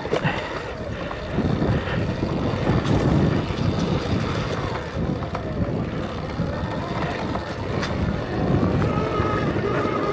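Wind buffeting the microphone over the rolling and rattling of an electric dirt bike moving along a dirt single-track trail, with no engine sound, only rushing, gusting noise.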